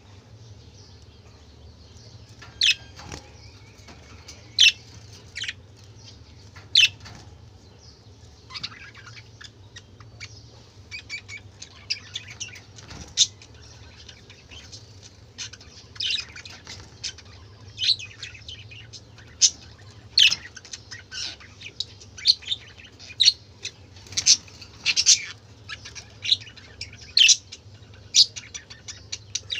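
Budgerigars calling: short, sharp chirps and squawks, scattered at first and coming thick and fast in the second half, over a steady low hum.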